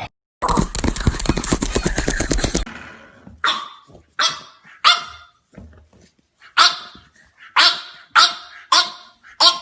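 French bulldog puppy growling harshly for about two seconds, then barking repeatedly, about nine short barks in uneven bursts.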